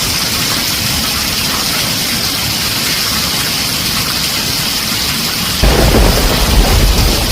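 Heavy rain drumming steadily on a tin roof. About five and a half seconds in, a loud deep rumble of thunder breaks in suddenly and keeps rolling.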